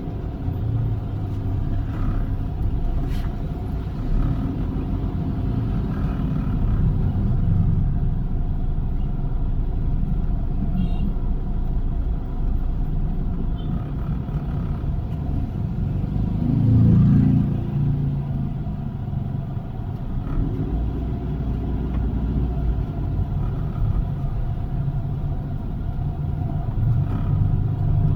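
Toyota Avanza driving, with engine and road noise as a steady low rumble that swells briefly about two-thirds of the way through.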